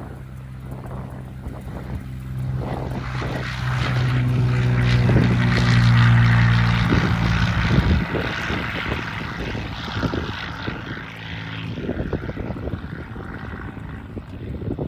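Cessna 182's six-cylinder piston engine and propeller running steadily as the plane passes close by, growing louder to a peak about six seconds in and then fading.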